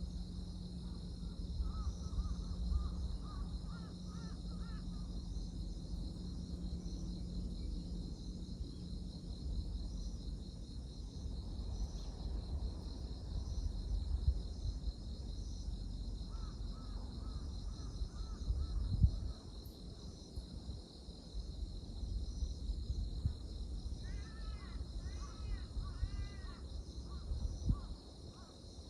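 Crows cawing in short runs of calls: one a couple of seconds in, another around sixteen seconds, and a louder series near the end. Under them runs a steady, high-pitched chorus of insects and a low rumble.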